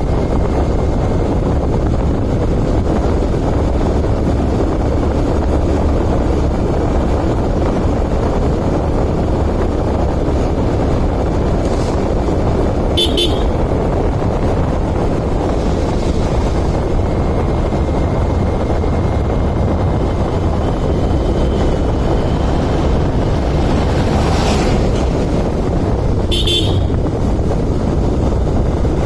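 Steady low rumble of road traffic, with a vehicle horn tooting briefly twice: once about halfway through and once near the end.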